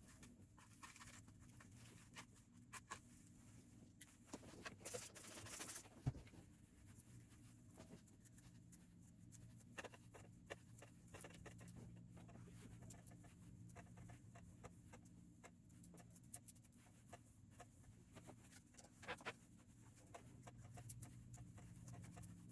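Wet human-hair wig being detangled: faint rustling with scattered small clicks and ticks, and a longer soft hiss about five seconds in ending in a sharp click.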